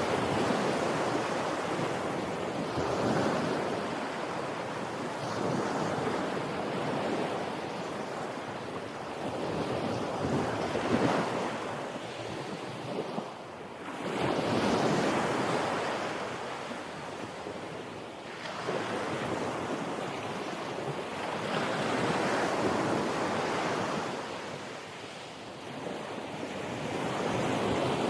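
Ocean waves breaking and washing up, swelling and ebbing every few seconds, with wind buffeting the microphone.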